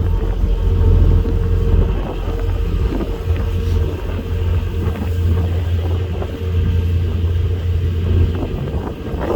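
Passenger ferry's engines running with a steady low drone and a thin steady hum above it.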